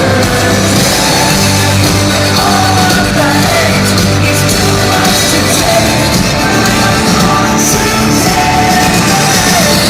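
Loud rock music with a singing voice over it.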